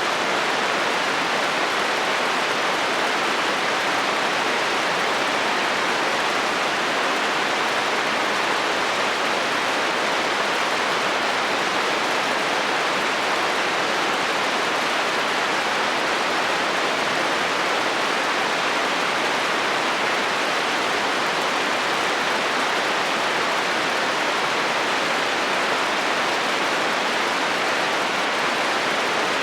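Steady rain falling on a metal roof, an even, unbroken patter with no let-up and no thunder.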